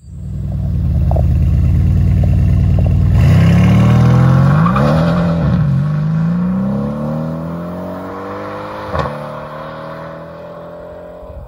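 A Mercedes-AMG C63 S's 4-litre twin-turbo V8 runs loudly for about three seconds, then the car pulls away hard: the engine note climbs, drops at a gear change, and climbs again as it fades into the distance. A single sharp exhaust crack comes near the end.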